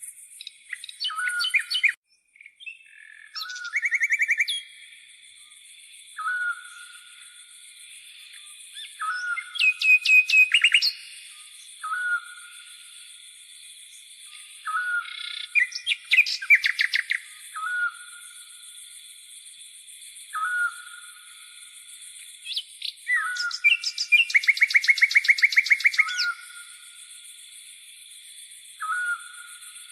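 Wild birds calling: one short call repeats about every two seconds, and loud, fast rattling trills come three times. Beneath them runs a steady high-pitched buzz of grasshoppers.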